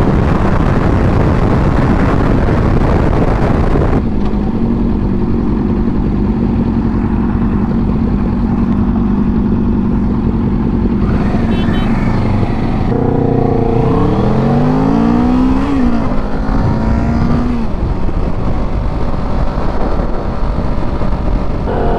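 Kawasaki Ninja 650's parallel-twin engine running under way, with wind rushing over the microphone that eases about four seconds in. About two-thirds of the way through the engine pitch climbs in a few quick rising sweeps as it accelerates, then settles.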